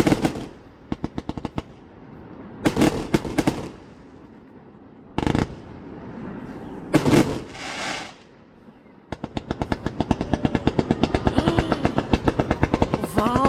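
Fireworks going off in a display: short strings of rapid crackling reports, a single heavy bang about five seconds in, and from about nine seconds a long dense run of rapid-fire bangs like a machine gun.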